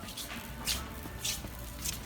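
Short swishing or scuffing strokes, about one every half second, over a low steady hum.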